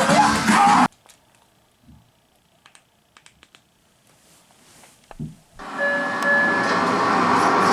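Movie trailer soundtrack played over surround sound speakers. The music cuts off suddenly about a second in, followed by a few seconds of near quiet with faint ticks. A loud, steady, rumbling soundtrack starts again later, as the next trailer begins.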